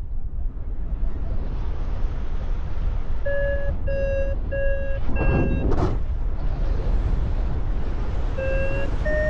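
Paragliding variometer beeping: four short, evenly spaced beeps, then more beeps near the end that rise in pitch, the audio signal that the glider is climbing in lift. Under it, a steady low wind rumble on the microphone, with a brief gust in the middle.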